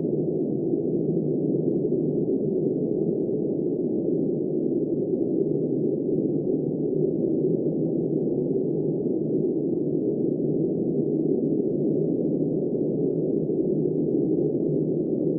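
Steady, muffled rushing of storm wind, a dull even noise with nothing high-pitched in it and no gusts or breaks.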